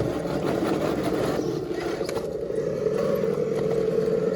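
Electric motor and gearbox of a 1/10-scale RC rock crawler whining steadily as it crawls, with a few faint clicks partway through.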